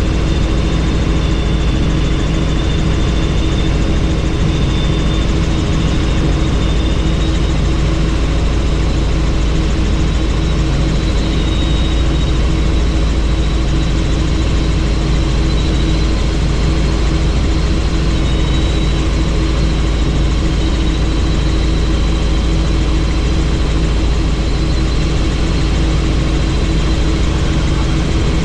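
Helicopter in flight, heard from on board with the doors off: a loud, steady rotor and engine roar, with a faint high turbine whine that wavers slightly in pitch.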